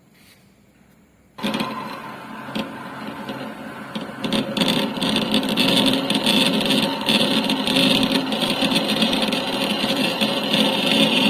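Metal lathe running, starting suddenly about a second and a half in and growing louder a few seconds later, with a steady mechanical noise.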